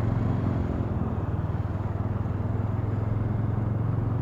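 TVS Ronin's single-cylinder engine running steadily under way, with an even low hum.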